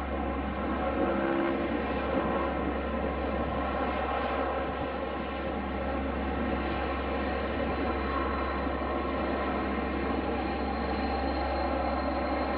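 Aircraft engines running steadily, an even drone with no rise or fall, joined by a faint high whine about eight seconds in.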